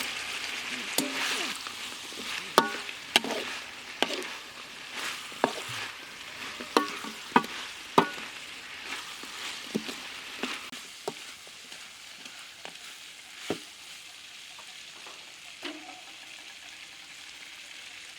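Chicken stir-frying with chili salt in a hot pan, sizzling steadily while a spatula strikes and scrapes the pan in irregular sharp clinks; the clinks are frequent in the first half and thin out toward the end.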